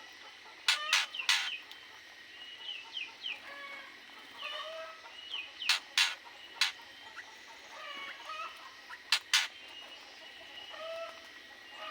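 Domestic fowl clucking in short calls, with loud sharp knocks in groups of two or three.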